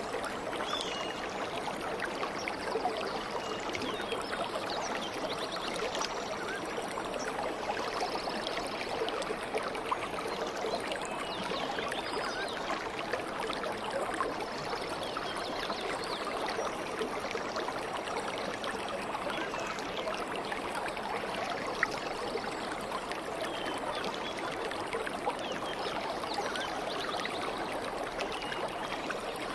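A stream flowing and trickling steadily, with faint short bird chirps now and then.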